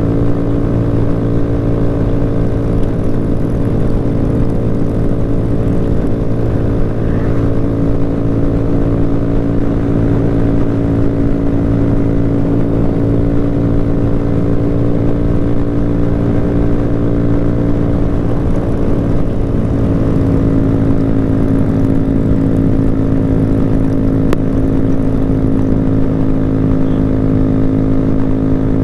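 Motorcycle engine running at a steady speed, a constant even drone with no revving.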